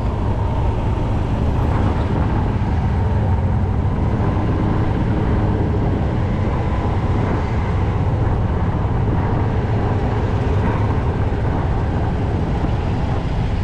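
Tractor engine running steadily at an even speed: a constant low rumble that doesn't rise or fall.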